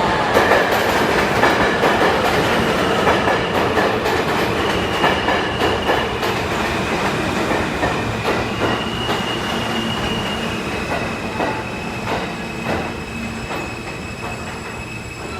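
An R160A subway train running into the station, its wheels clicking over rail joints under a steady rumble, with a high steady whine and wheel squeal above it. It gets gradually quieter as the train slows.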